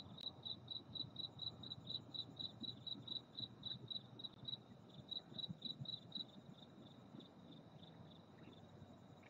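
A cricket chirping in a steady, even rhythm of about four high chirps a second, growing fainter after about six seconds, over a faint low background hiss.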